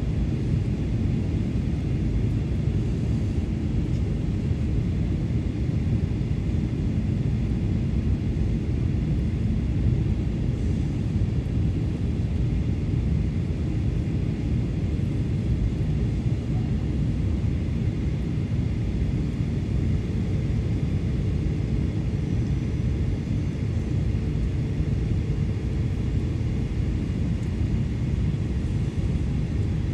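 Steady low rumble of an Airbus A320 cabin in flight, engine and airflow noise with a faint steady whine above it, as the airliner descends on approach to land.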